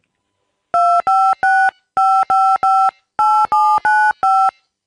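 Ten touch-tone (DTMF) telephone keypad beeps entering a 10-digit phone number, in groups of three, three and four. Each is a short two-pitch tone.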